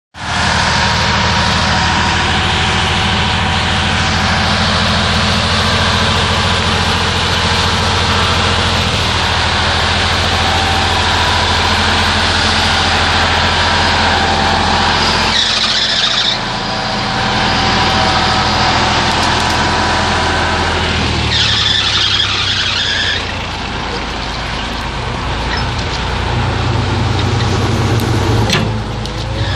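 Timber truck's engine running steadily under way, its note changing about two-thirds in, with two short hissing bursts about halfway and about two-thirds in.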